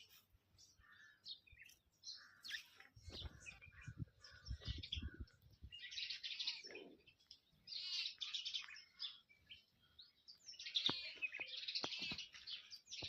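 Small birds chirping and twittering in many short, quick calls, busiest about six seconds in and again near the end. A few low thuds come about three to five seconds in.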